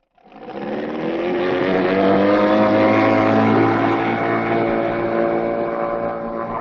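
Electric drill motor of a drill-powered outboard running steadily under load, with a whine of several tones. It starts just after the beginning and builds over the first second.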